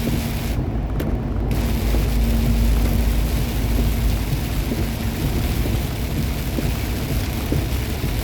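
Semi truck driving on a rain-soaked road: steady engine drone with low rumble and a constant hiss of tyre spray and rain. The hiss briefly drops away for about a second near the start.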